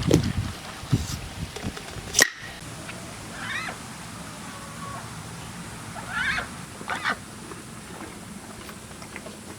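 Three short animal calls, each a brief rise and fall in pitch, a few seconds apart. There is a sharp click a couple of seconds in.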